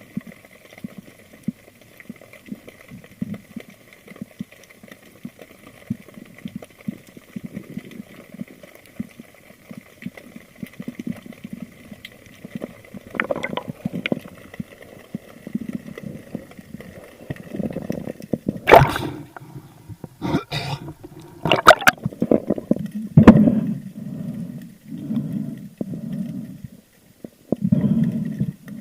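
Water gurgling and surging around a camera recording underwater, in uneven low pulses, with a faint steady whine in the first half. Four sharp clicks or knocks come between about 19 and 23 seconds in.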